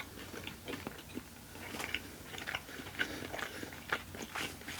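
A person chewing food close to the microphone: a steady run of short, wet mouth clicks and smacks.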